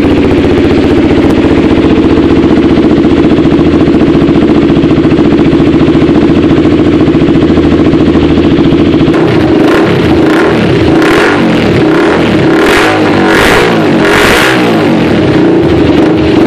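Honda CBR150R's single-cylinder engine through a Leo Vince GP Corsa aftermarket exhaust, loud. It idles steadily, then from about halfway it is revved in a series of short blips at low to mid revs.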